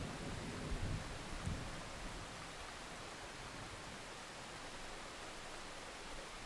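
Steady hiss of rain, with the low rumble of thunder dying away over the first two seconds after two brief low swells.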